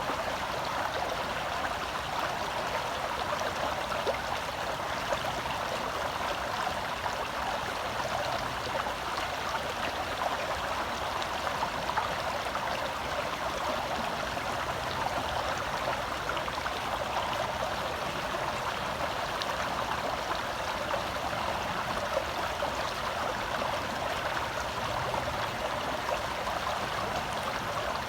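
Gentle forest stream flowing steadily: a continuous rush of water, flecked with small splashes and trickles.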